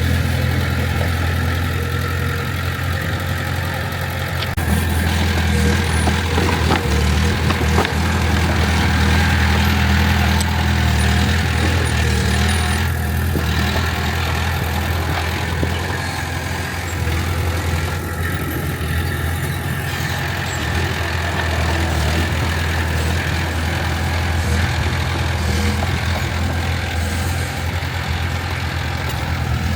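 Diesel engine of heavy earthmoving machinery running steadily with a low hum. It gets louder about four seconds in and eases back a little after about twelve seconds.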